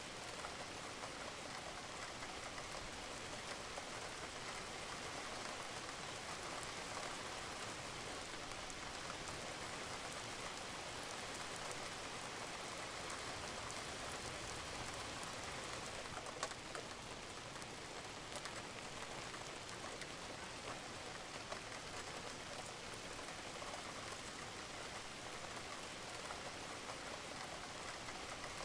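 Steady rain falling on a roof, an even hiss with scattered drop ticks; one drip stands out about two-thirds of the way through.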